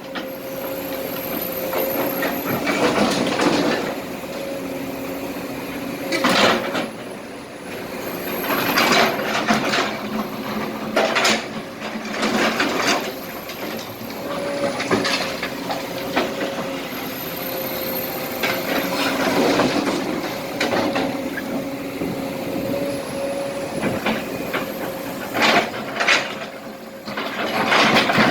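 Kobelco SK200 hydraulic excavator running steadily while it works, with repeated clattering and scraping as broken asphalt and small rocks are scooped and dumped into a truck bed.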